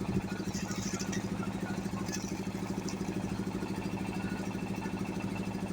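A small engine running steadily at an even idle-like speed, with a fast, regular throb.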